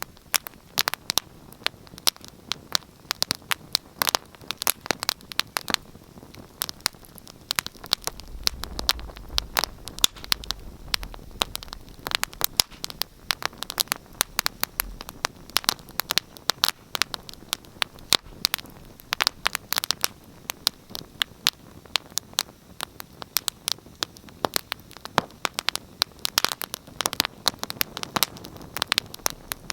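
Wood fire crackling in a fireplace: dense, irregular snaps and pops over a faint hiss, with a brief low rumble about a third of the way in.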